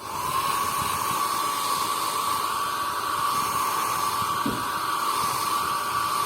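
Handheld hot-air dryer switched on and running steadily, a whooshing rush of air with a constant high whine from its motor, drying freshly applied leather repair paste.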